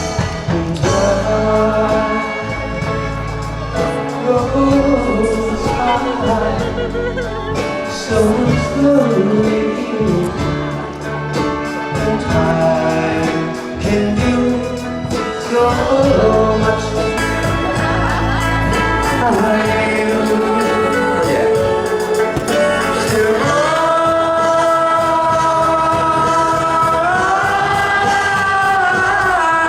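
Live band playing a pop song with singing. About 23 seconds in the voices settle on a long held note that lasts until near the end.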